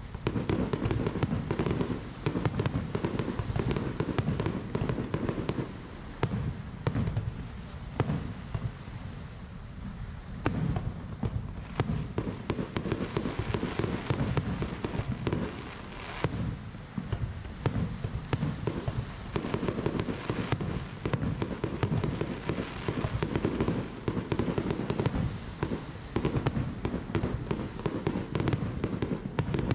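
Fireworks display: aerial shells bursting in a dense, continuous barrage of booms and crackling, with a few brief lulls.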